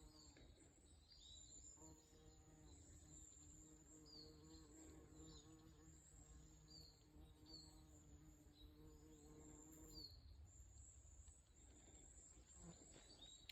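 Bumblebee buzzing faintly in a steady low hum, starting about two seconds in and stopping near the end, with a few short high bird chirps over a thin high insect or bird drone.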